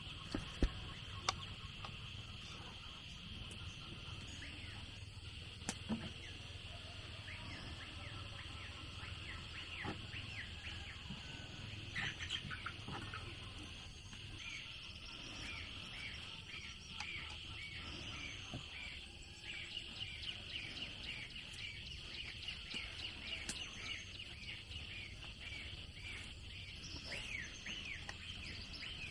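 Outdoor ambience of birds chirping over and over, with a steady insect drone. A few sharp knocks come through, near the start and now and then later.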